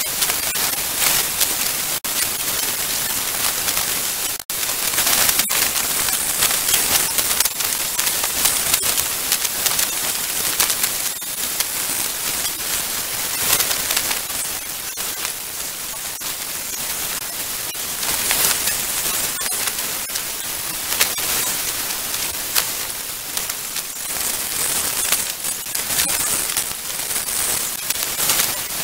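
Heavy hurricane rain, a dense, steady hiss of rain falling and pelting surfaces, broken by a few brief dropouts near the start.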